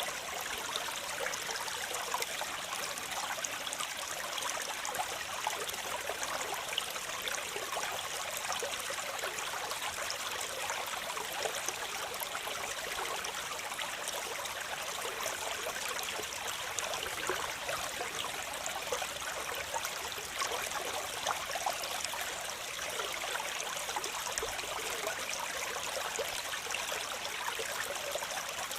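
Waterfall: falling water splashing steadily, an unbroken hiss with fine splashing detail, mostly high with little deep rumble.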